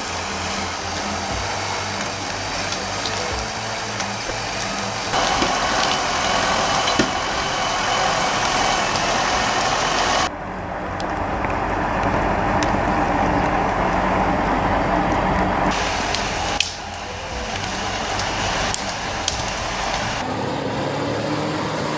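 Heavy machinery engines running in a run of joined clips, the sound changing abruptly about every five seconds.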